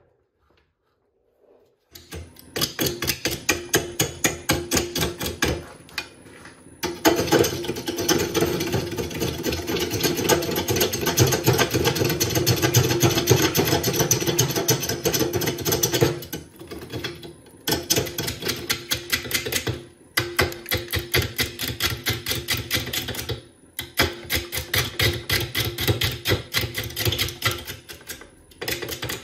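A turning tool cutting an out-of-round burl spinning on a wood lathe, giving a fast, even knocking as the edge meets the uneven, unbalanced wood on each turn. It starts about two seconds in and runs in several long passes, broken by short pauses.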